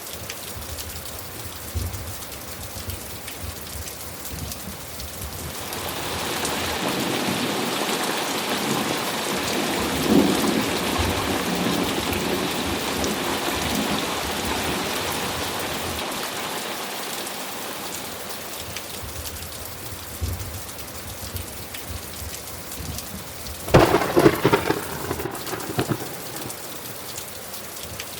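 Steady rainfall with thunder: a long rolling rumble swells up about five seconds in and slowly dies away, then a sharp, crackling thunderclap breaks near the end, the loudest moment.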